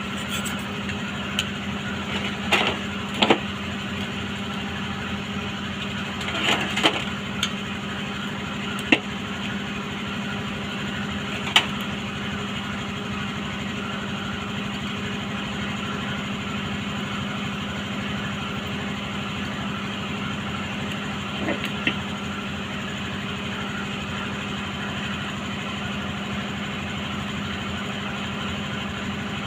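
A steady machine hum with a low tone, running throughout, with a few scattered sharp metallic clicks and knocks from parts being handled.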